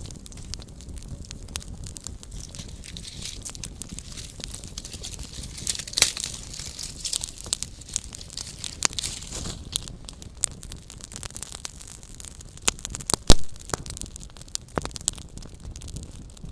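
Small campfire crackling: a steady bed of flame noise with scattered sharp pops and snaps, a brief hissing flare between about six and nine seconds in, and one loud pop about thirteen seconds in.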